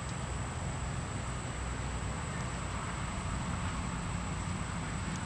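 Steady outdoor background noise with a low rumble, without clear separate events.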